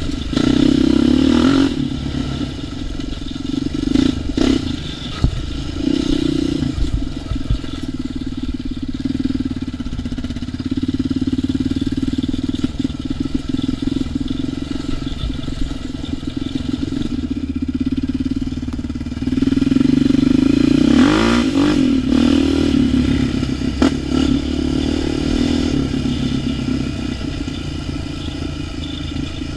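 ATV engine running on a trail ride, the throttle opening and closing. It revs louder with a rising and falling pitch about two-thirds of the way through, and there are occasional knocks and clatter from the machine.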